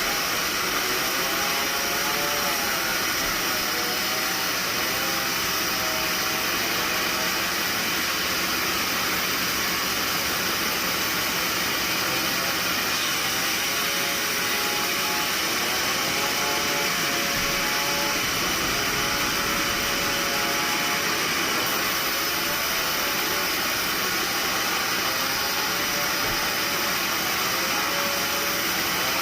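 Steady, unbroken machine noise, like sawmill machinery running, with faint wavering tones underneath.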